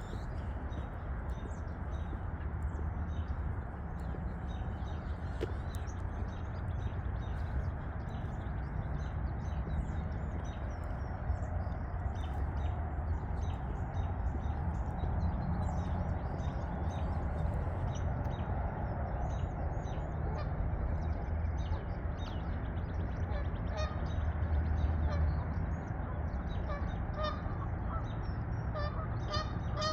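Geese honking, the honks coming more often in the last several seconds, with small birds chirping over a steady low rumble.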